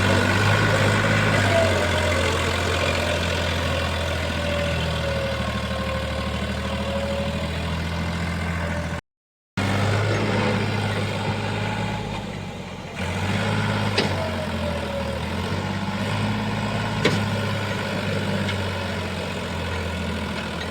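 Tractor diesel engine running steadily at a low, even speed, with the sound cutting out for about half a second around nine seconds in. A couple of sharp clicks come in the second half.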